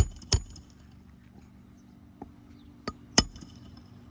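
Hand-hammering a roofing nail into a repair shingle: sharp metal strikes, two quick blows at the start, a pause, then three more blows in the second half.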